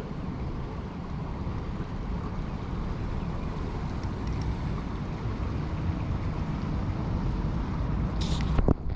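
Steady low rumble of wind buffeting the microphone, with a brief sharp noise near the end before the sound drops out suddenly.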